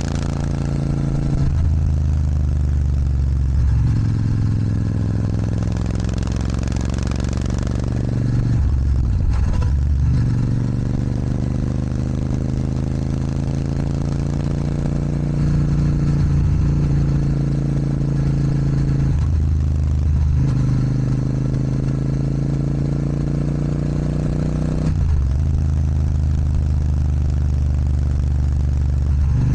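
Royal Enfield Super Meteor 650's 648 cc parallel-twin engine running under way through an aftermarket Rhino Racing sports exhaust. The engine note breaks and picks up again four times, as at gear changes.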